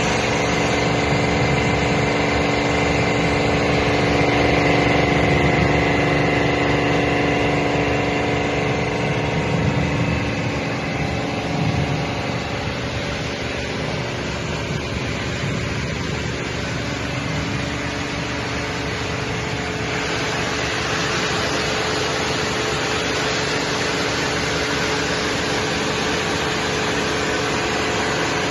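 High-pressure washer running: a steady motor and pump hum over a continuous hiss.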